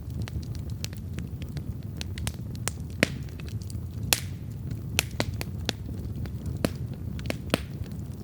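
Wood campfire burning with a steady low rumble and irregular sharp crackles and pops, the loudest pops about three and four seconds in.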